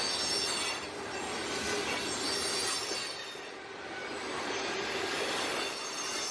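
Freight cars of a CSX mixed train rolling past, steel wheels on rail with a faint high-pitched wheel squeal. The sound swells and eases a few times.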